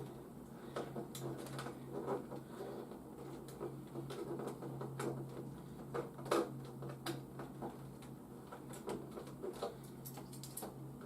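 Scattered light clicks and taps of plastic toys being handled, over a steady low hum, with the sharpest tap about six seconds in.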